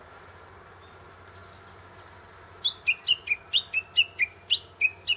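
Japanese bush warbler (uguisu) calling: after a faint thin whistle, a fast run of loud, sharp notes, each dropping in pitch, about four a second, begins about halfway in.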